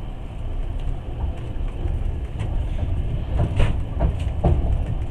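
Passenger train running, heard from inside the carriage: a steady low rumble with a few short, sharp knocks from the wheels on the track, most of them past the middle.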